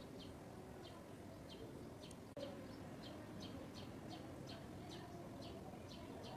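A bird's short, high chirps repeated in a steady series, about two a second at first and coming a little faster in the second half, over a faint low background hum. One sharp click sounds about two seconds in.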